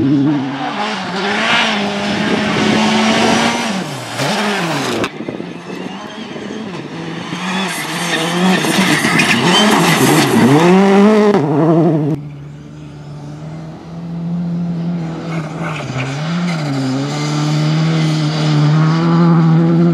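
Rally cars driven hard on a stage, heard in three passes joined by abrupt cuts about five and twelve seconds in. The engines rev up and drop away with each lift and gear change. The last pass is quieter and steadier.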